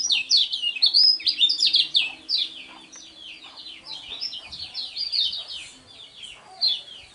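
A kecial kuning white-eye singing a fast, continuous twittering song of quick high notes, most of them falling in pitch. It is loudest in the first two seconds or so and carries on more softly after that.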